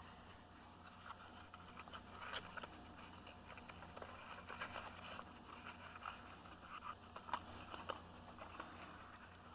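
Faint rustling and small irregular taps and clicks of an old, worn cardboard toy box being handled, over a steady low hum.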